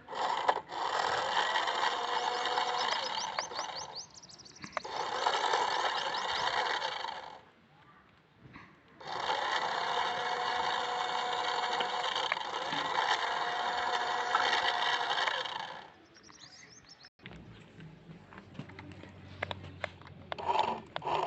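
Small electric motor and gears of a battery-powered toy vehicle whirring in two long runs of several seconds each, with a short pause between them, while it tries to pull another toy car on a rope. The sound is quieter near the end.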